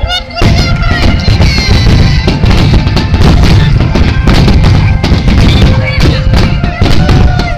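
Starmine fireworks finale: a dense, continuous run of shell bursts and booms that starts about half a second in, with music playing alongside.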